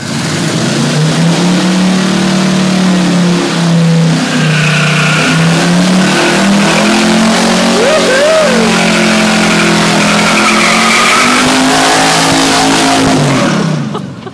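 1968 GMC truck doing a burnout: the engine held at high revs, its pitch rising and falling, with the rear tires spinning and squealing on the concrete floor. The revs drop and the sound falls away near the end.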